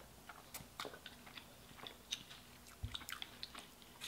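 Faint chewing of a cheeseburger, with scattered small mouth clicks.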